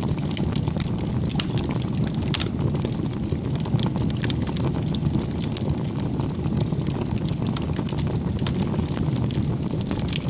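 Wood fire crackling: a steady low rumble under scattered sharp pops and snaps.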